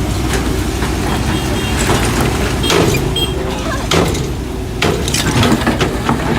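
An engine running steadily, with several sharp knocks and clanks over it.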